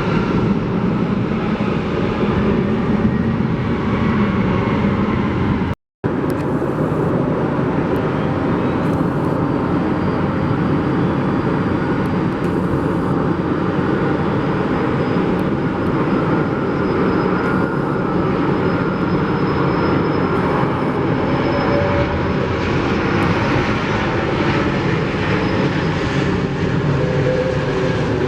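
Jet airliner engines running loud and steady, with a faint high turbine whine that rises and then holds. The sound cuts out completely for a moment about six seconds in.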